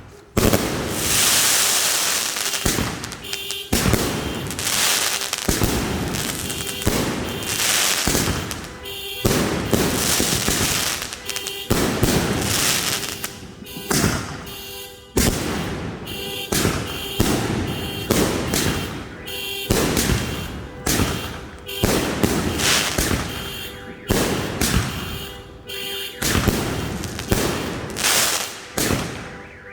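New Year's fireworks going off in a continuous barrage: repeated sharp bangs, about one or two a second, with crackling between them.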